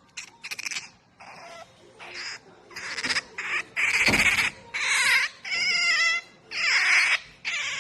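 Pet otter calling in a series of about ten sharp, high-pitched squeals and chirps, louder from the middle on: the noise she makes when being touched.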